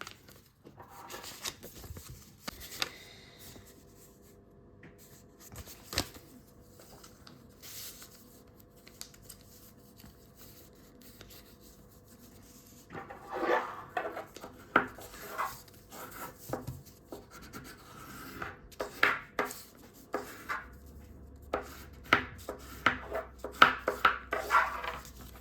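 A sheet of A4 paper being folded and creased by hand. At first there is little more than faint handling, then from about halfway there is a run of short, sharp rubbing strokes as the folds are pressed flat.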